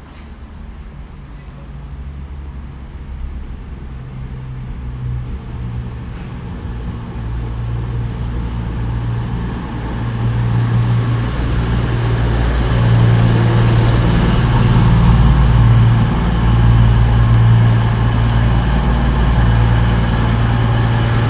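CrossCountry double Voyager, a Class 220 and a Class 221 diesel-electric multiple unit coupled together, drawing nearer with the low drone of its underfloor diesel engines growing steadily louder, loudest in the second half.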